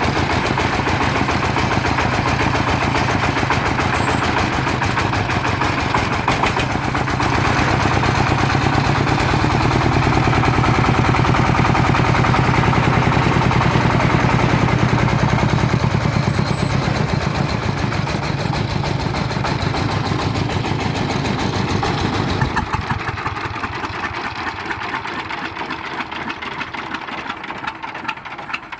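Engine of a công nông farm truck running with a rapid, steady chug. It grows louder toward the middle, then fades over the last six seconds or so.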